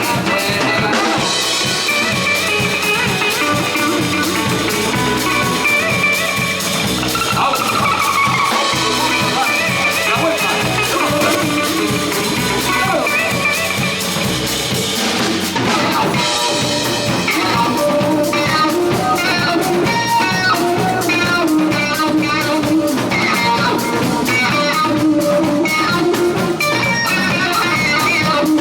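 Live band playing psychedelic cumbia: guitar over a drum kit in a steady groove, with the drum strokes coming through more sharply in the second half.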